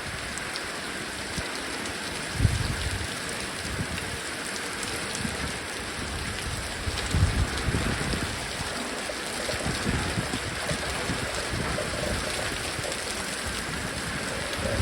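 Heavy rain falling steadily, with strong wind gusting into the microphone as low rumbles about two and a half seconds in and again around seven to ten seconds.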